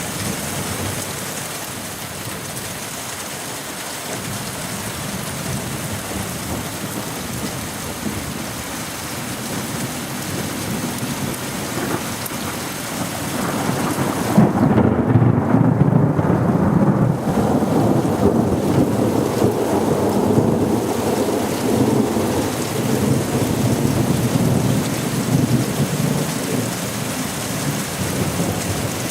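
Thunderstorm: steady rain, with a long roll of thunder that builds about halfway through, is loudest a few seconds later, then rumbles on and slowly dies away.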